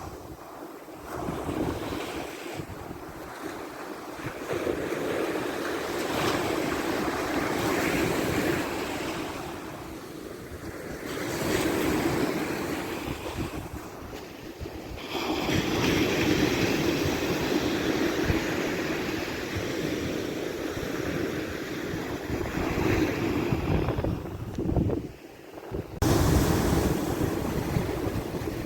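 Mediterranean surf breaking on a sandy beach in a strong wind that buffets the microphone with a heavy rumble, the rush of the waves swelling and falling. The sound changes abruptly twice, about halfway through and near the end.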